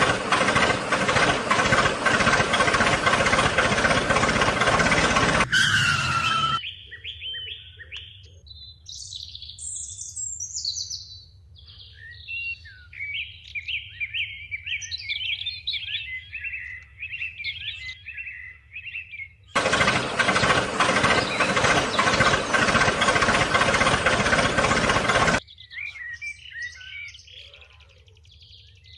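Small birds chirping and twittering in quick, high runs. Twice a loud, steady noise cuts in abruptly and drowns them out for several seconds.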